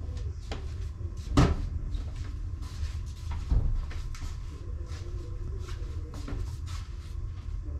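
Kitchen handling sounds during cooking: two solid knocks about two seconds apart, among lighter clicks and knocks, over a low steady hum.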